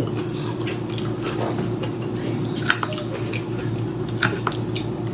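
Close-up wet chewing of a mouthful of cooked green vegetables, with a few sharp clicks of a metal fork against a plate, over a steady low hum.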